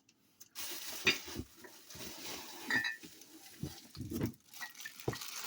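Ceramic mugs being handled and set down: a few dull knocks and one short clink, over a steady hiss that starts about half a second in.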